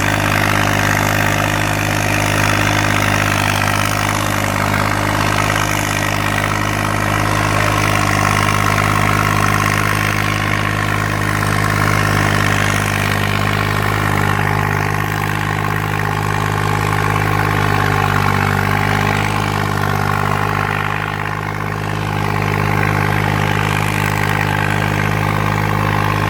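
New Holland 6500 tractor's diesel engine running steadily at a constant speed, with a brief drop in level about three quarters of the way through.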